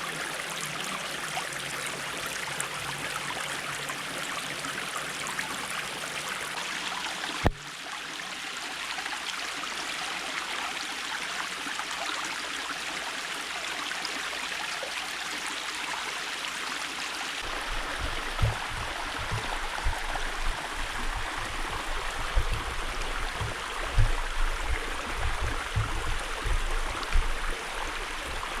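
A creek's water running steadily. There is one sharp click about a quarter of the way in. Past the middle, irregular low thumping rumbles join the water.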